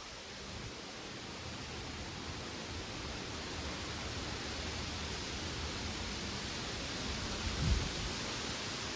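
Wind through backyard trees and plants, a steady rustling hiss of leaves. A brief gust buffets the microphone near the end.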